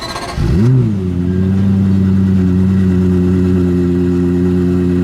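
A car engine revs once, rising and falling in pitch about half a second in, then settles into a steady idle.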